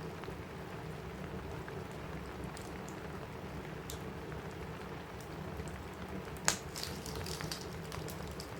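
Steady rain on a cabin roof with a crackling wood fire, its scattered sharp pops and clicks over the rain; one loud pop about six and a half seconds in, then a quick run of smaller crackles.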